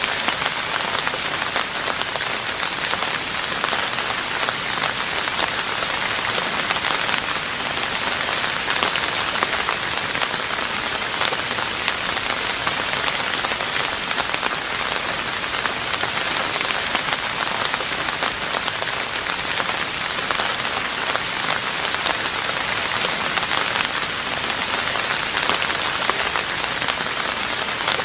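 Steady rain falling on a roof, a dense, even patter of countless individual drops.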